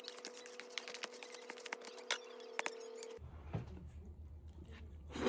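Scattered light clicks and taps over a steady hum; about three seconds in, the hum gives way to a deeper one with fewer clicks.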